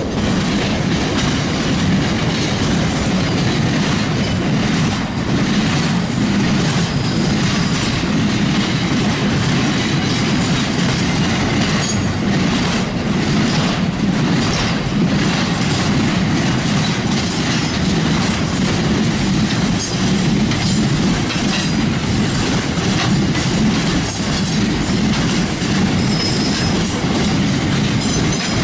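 A freight train of container and box wagons passing close by: the steady rumble and rattle of its wheels on the rails.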